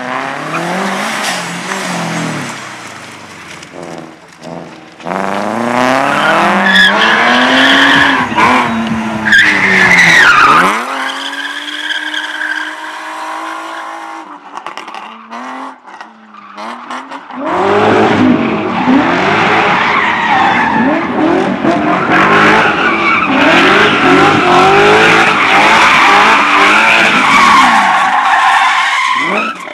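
Slalom race car driven hard through a cone course: engine revving up and down with gear changes while the tyres squeal and skid through the turns. About ten seconds in the engine note drops away and the sound stays lower for several seconds, then a car comes back in at full revs with more tyre squeal.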